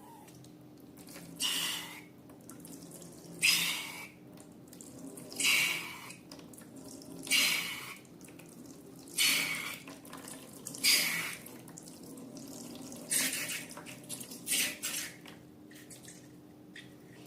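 Wet slime being squished by hand, a short squelching burst about every two seconds.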